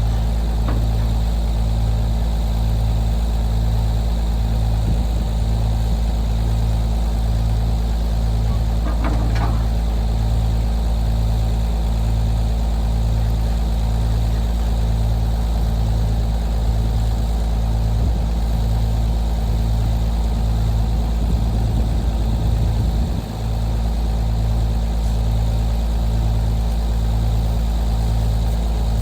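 A vehicle engine running steadily with a deep drone and a slow pulsing beat about once a second, with a short rattle about nine seconds in.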